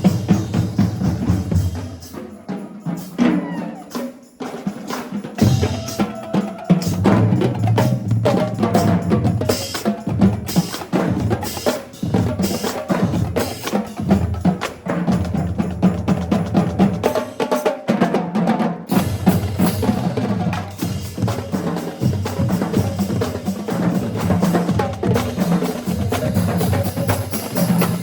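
High school marching band drumline playing a marching cadence, with snare drums, bass drums and stick clicks. It drops quieter a couple of seconds in and comes back at full strength about five seconds in.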